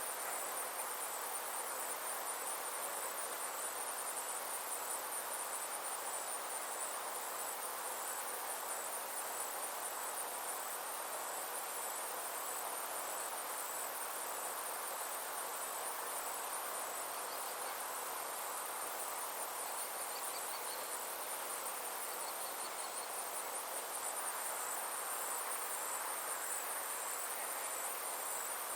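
Steady chorus of summer insects, a high, fast-pulsing trill, over a soft even hiss. A few faint short chirps come in just past the middle.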